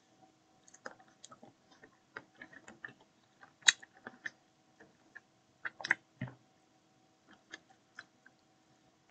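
A person chewing chicken off the bone close to the microphone: irregular chewing and mouth clicks, with the loudest cluster about six seconds in. A faint steady electrical hum runs underneath.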